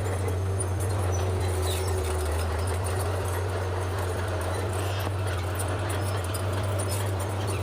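Bulldozer's diesel engine running steadily with a constant low drone, with faint high squeaks now and then.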